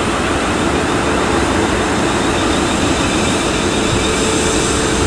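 South Western Railway Class 450 Desiro electric multiple unit moving through the platform: loud, steady running noise of wheels on rail with a steady electrical hum from the train.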